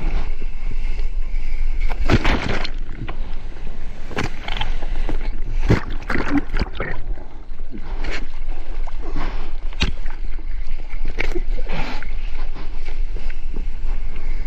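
Sea water sloshing and splashing in irregular bursts, over a steady low rumble.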